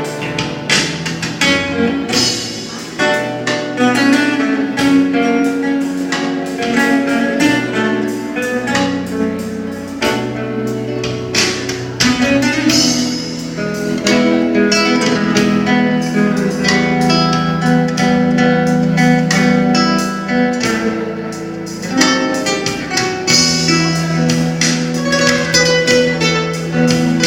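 Instrumental music on a plucked string instrument: quick runs of picked notes over held low notes, with no singing.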